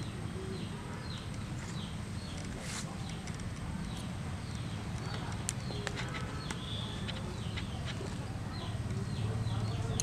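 Small birds chirping over and over with short, quick falling notes, over a steady low hum. A few sharp clicks stand out.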